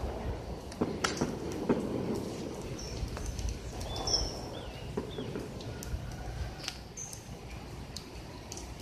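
Birds chirping in short, separate calls, with scattered sharp taps and scuffs and a low rumble underneath.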